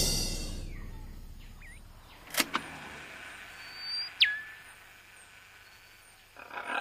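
A closing orchestral hit rings away, then faint ambience with a few bird calls: a short rising chirp early on, two clicks about two and a half seconds in, and a sharp whistle that drops steeply in pitch about four seconds in.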